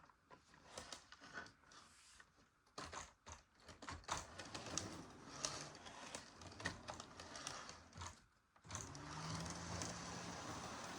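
A scatter of irregular light clicks and taps for about eight seconds, then a model train's running noise comes in abruptly near the end: a steady low motor hum with wheel rumble on the track.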